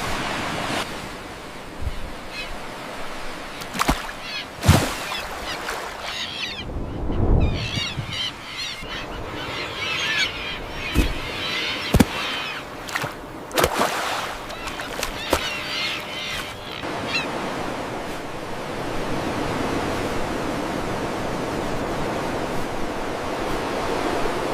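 Generated rainforest ambience: a steady rushing noise with bursts of quick bird chirps and several sharp clicks over the first two-thirds, then only the rushing noise.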